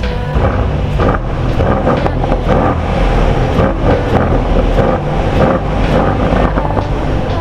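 Mercedes-AMG C63's twin-turbo V8 running loudly as the car is driven, with many short sharp pops and cracks mixed into the engine note.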